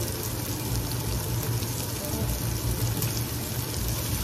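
Bell pepper strips and chopped garlic sizzling in a hot sauté pan: a steady frying hiss.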